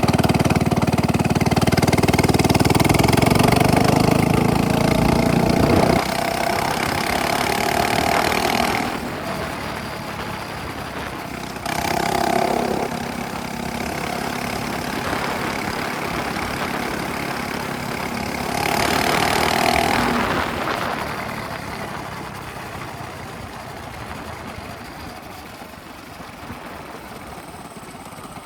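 Minibike engine through a straight pipe exhaust, revving hard and loud at first, then running quieter with swells in loudness as it rides around, fading near the end.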